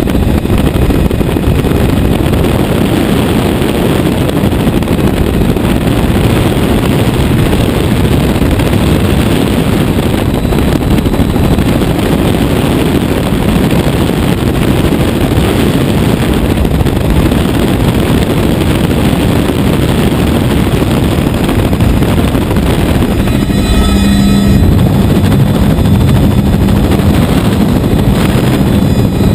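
Helicopter in flight: steady, loud rotor and engine noise, with a steady low hum coming in near the end.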